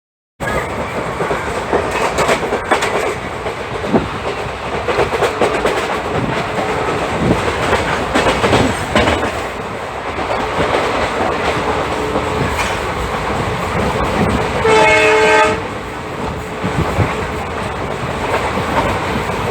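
Express train hauled by a WDP-4D diesel locomotive passing at speed: a steady rumble with the clatter of wheels over rail joints. One horn blast of about a second comes about three-quarters of the way through.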